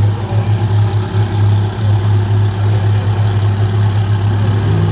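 A car engine idling with a steady, loud low hum.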